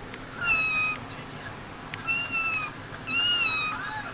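Kitten meowing three times, high-pitched calls about a second apart, the last the loudest.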